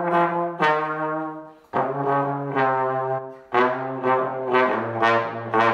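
A trombone playing a slow holiday tune, one held note at a time with a fresh note about every second.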